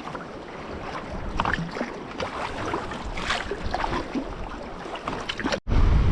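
Sea water lapping and splashing around a kayak, with many small irregular plops and drips. About five and a half seconds in, a cut brings in a louder rumble of wind buffeting the microphone.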